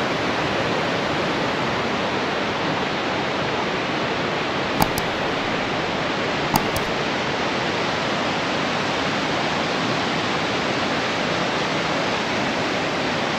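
Montezuma Falls, a 104-metre single-drop waterfall, rushing in a steady roar of falling water. Two faint brief clicks come a little before the middle.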